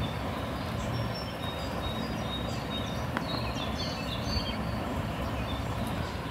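Steady background rumble and hiss with small birds chirping in short high notes throughout, and a faint click about three seconds in.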